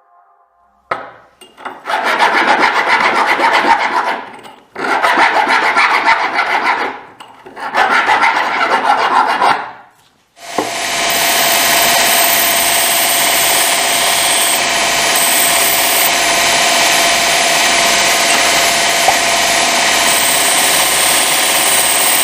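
A hand tool rasping against the workpiece, filing or sawing, in three stretches of about two seconds each with short pauses between. Steady electronic background music comes in at about ten seconds.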